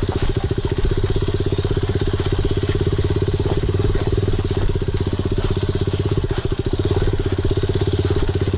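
Enduro dirt bike engine running steadily at low revs, its rapid firing pulses even throughout with no revving up or down.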